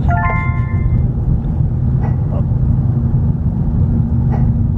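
Steady low rumble of a car's cabin on the move, road and engine noise heard from inside the taxi. A short high ringing tone sounds just after the start.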